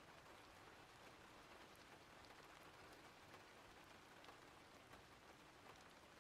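Faint steady rain: an even hiss with scattered small drop ticks.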